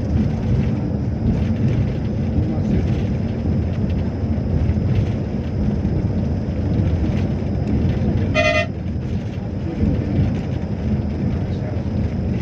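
Steady low rumble of a moving train, with one short horn toot about eight and a half seconds in.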